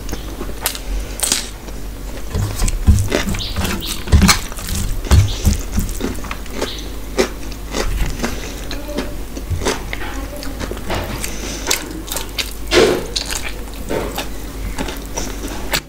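Close-miked eating by hand: wet chewing and smacking mouth sounds, with fingers squishing rice and curry, in irregular clicks and bursts.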